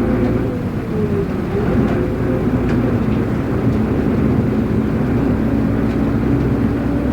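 Inside a moving city bus: the engine runs with road rumble. Its note dips and rises in the first couple of seconds, then holds steady.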